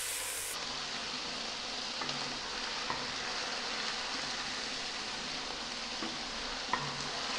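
Chicken pieces with onion and garlic sizzling steadily in hot oil in a non-stick pot, stirred with a wooden spatula that gives a few light taps against the pan.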